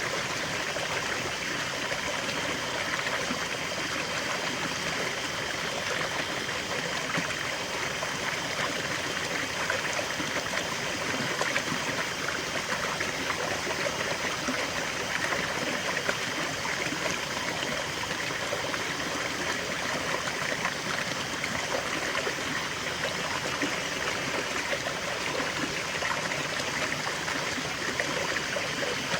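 River water flowing steadily over stones, a continuous rushing and burbling.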